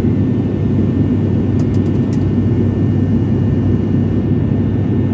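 Steady, loud drone of an airliner's engines heard inside the passenger cabin in flight, deep and unchanging, with a few faint ticks about two seconds in.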